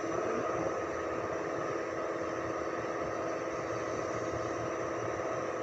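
2005 Ford Expedition's V8 engine running steadily at an even speed, with no revving.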